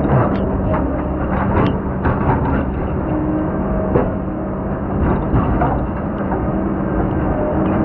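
Heavy diesel logging machine engine running steadily under load, with several sharp knocks and clanks; the strongest comes about four seconds in.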